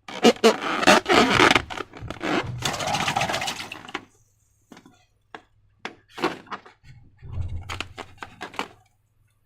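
Slime being squeezed and worked by hand, with dense crackling and popping for about the first four seconds, then scattered clicks and short squelches.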